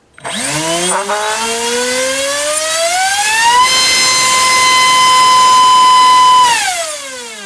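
Gartt HF500 1600kv brushless motor spinning a Gemfan 6x6 propeller on a thrust test stand. It spins up with a rising whine, holds a steady high-pitched whine at top speed for about three seconds, then winds down with falling pitch near the end.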